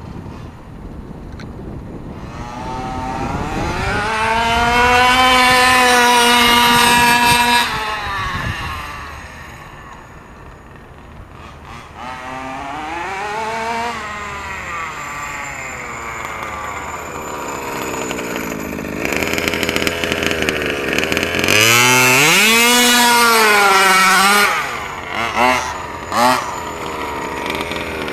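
Small two-stroke gas engine of an HPI Baja 5B RC buggy running flat out. It winds up to a high, steady pitch twice and drops away each time, with a shorter rise and fall between.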